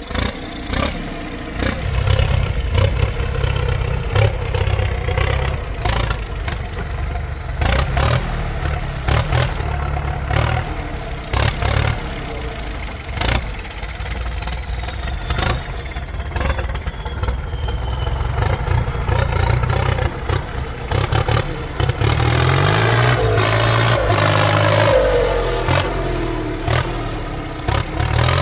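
Heavy diesel engines of tractors and a truck working under load to pull free of mud, with a steady low rumble and many sharp clicks throughout. The revs climb and drop several times in the last few seconds.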